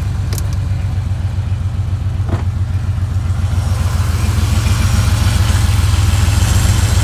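Porsche 964's air-cooled flat-six idling with a steady, pulsing low rumble, a little louder from about four seconds in; a single sharp click sounds just after the start.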